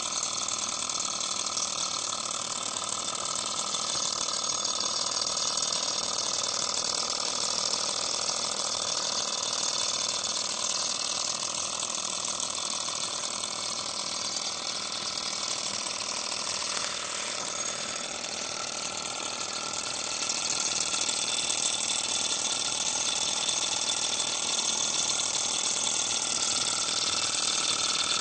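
Miniature Stirling engine running steadily, a fast continuous mechanical rattle, a little louder about two-thirds of the way through.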